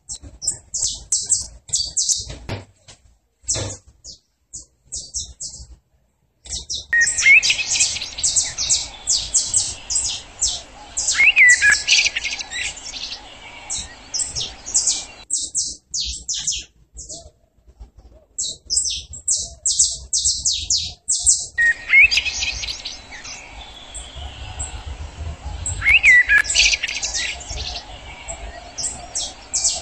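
Several small songbirds chirping and singing: rapid runs of short, high chirps, with a few lower whistled notes that rise and fall. A faint steady background noise runs underneath through two long stretches.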